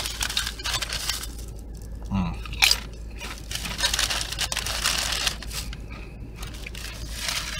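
Crunching and chewing of tortilla chips close to the microphone, with a short hum of the eater's voice about two seconds in.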